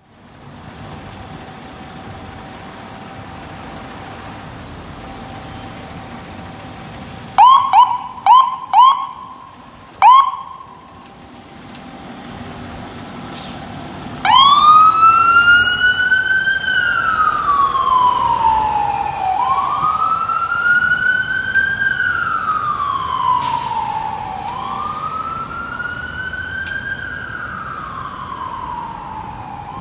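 Fire engine siren: a few short, loud rising blips about seven to ten seconds in, then from about halfway a steady wail rising and falling in cycles of about five seconds.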